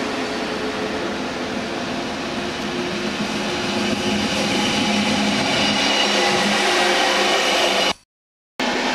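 Trains running through a station: a steady rumble and whine of train noise that grows somewhat stronger about halfway through as a regional train approaches. Near the end the sound cuts out completely for about half a second at an edit, then the train noise resumes.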